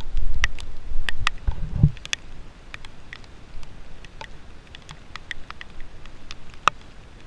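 Low wind rumble buffeting the microphone for about the first two seconds, then scattered sharp ticks and taps at irregular intervals.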